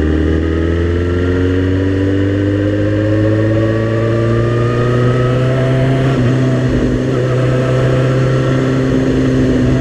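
Suzuki GSX-R sport bike's inline-four engine running under way, its pitch rising slowly as it pulls through a gear, with a short change in pitch about six seconds in before it runs steadier.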